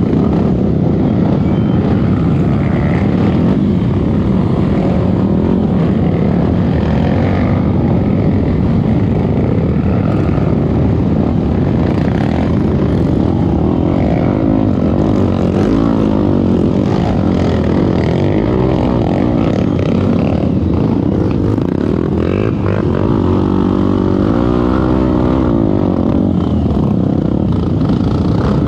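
Trail motorcycle engine running while being ridden, its pitch rising and falling repeatedly as the throttle is worked.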